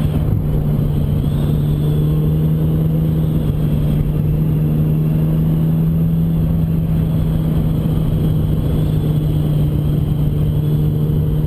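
Yamaha R1 inline-four engine running at a steady, even pitch while the bike cruises, under a constant rush of wind noise.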